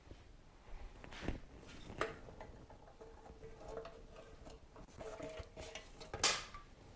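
Metal tools and parts clinking and knocking during hand disassembly: a few sharp taps, a faint ringing tone for a few seconds after the second one, and the loudest knock near the end.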